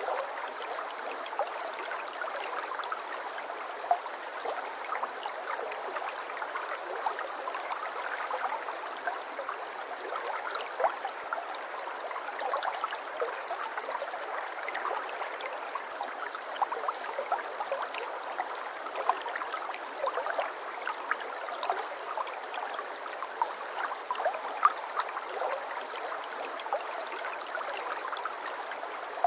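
Shallow brook babbling over stones: a steady rush of running water with frequent small plops and gurgles.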